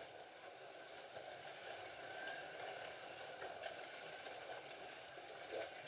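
Scalextric slot cars running on the track: a steady whir of small electric motors and guide braids on the rails.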